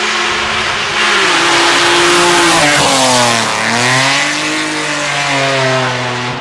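Rally car engine at high revs, getting louder about a second in; the revs fall steeply around three seconds in, then climb again and hold.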